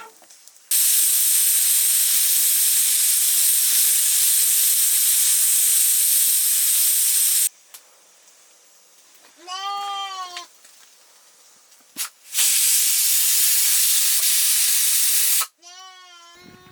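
Loud, even hissing in two long stretches that start and stop abruptly. Between them a sheep bleats once, and it bleats again near the end.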